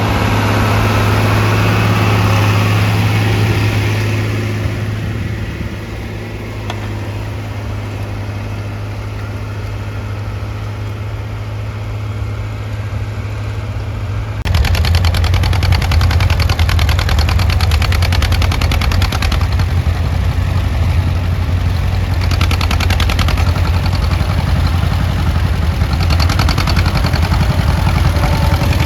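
Antique tractor engine running steadily. It fades a little a few seconds in, then about halfway through it turns suddenly louder, with a rapid, even firing beat.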